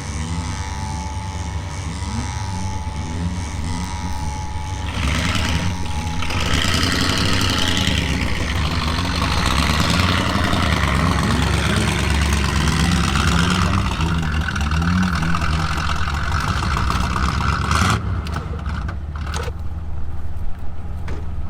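Off-road vehicle's engine running, its revs rising and falling again and again. A broad rushing noise joins it from about five seconds in and drops away suddenly near the end.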